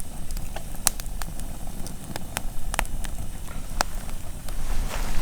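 Wood campfire crackling, with irregular sharp pops and snaps every half second or so over a steady low rumble.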